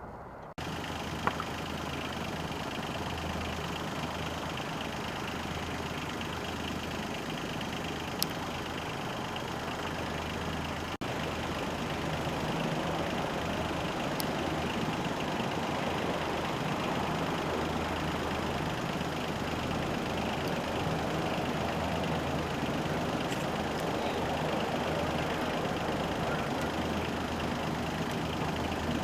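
UH-60 Black Hawk helicopters running: the steady noise of their twin turboshaft engines and rotors, with a strong low hum. The sound breaks off sharply twice, about half a second in and about eleven seconds in, and carries on unchanged after each break.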